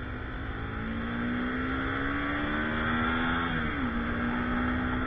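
Motorcycle engine accelerating, its pitch rising steadily for about three seconds, then dropping sharply as it shifts up a gear and running on steadily, over a low rumble of road and wind noise.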